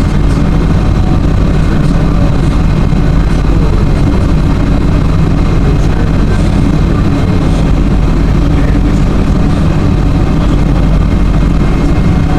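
Tour boat's diesel engine running steadily at cruising speed, a loud even low hum heard from on board.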